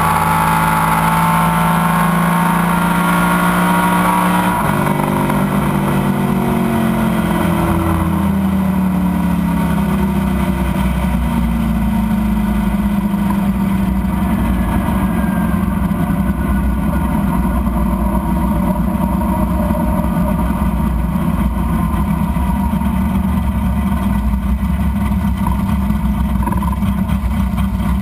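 Drag car's engine heard from inside the cabin, its pitch falling as the car slows after a pass, with a sudden drop about four seconds in. It then settles into a steady low rumble as the car rolls slowly along.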